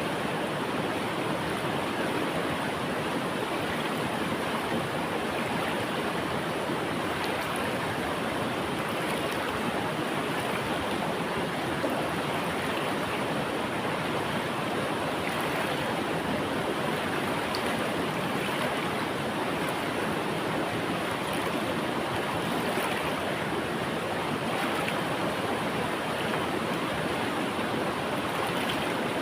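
River water flowing and splashing, a steady rushing sound without let-up.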